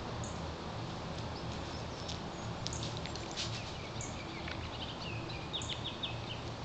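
Small wild birds calling in woodland: short high notes recurring every second or so, a few clicks about three seconds in, and a quick run of chirps about five and a half seconds in, over a steady low rumble.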